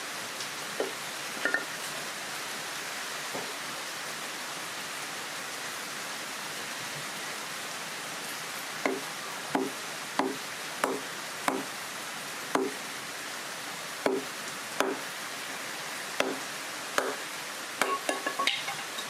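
Steady heavy rain, with a series of short wooden chopping knocks, mostly in the second half, about one every two-thirds of a second.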